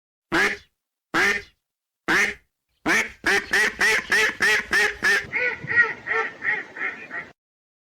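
Ducks quacking: three single quacks a second or so apart, then a rapid run of quacks at about three a second that grows softer toward the end.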